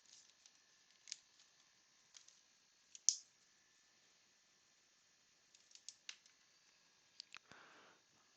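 Baseball cards being handled: faint scattered clicks and snaps of card stock, the sharpest about three seconds in, and a brief soft slide of cards near the end.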